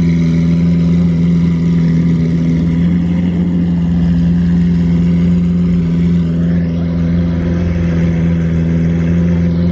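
Car engine idling steadily at close range, a loud, even low drone that holds one pitch without revving.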